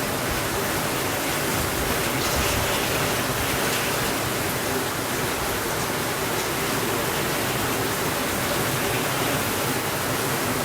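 Heavy rain falling steadily on a window, an even, unbroken hiss.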